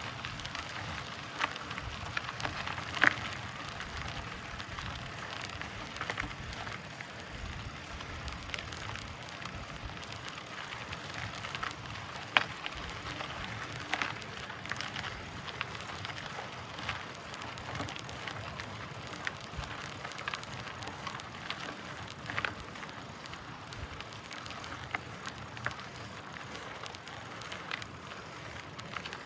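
Mountain bike grinding slowly up a climb in its easiest gear: a steady crackle of tyres over the dirt and stones, with sharp clicks and knocks scattered through it, the loudest about three and twelve seconds in.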